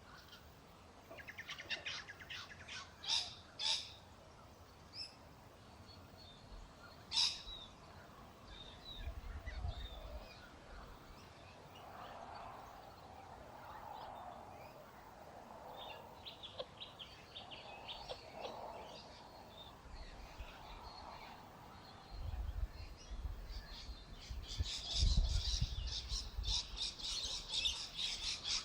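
Small birds chirping in short bursts, with a louder flurry of rapid scratchy, fluttering sounds and low rumbling over the last several seconds.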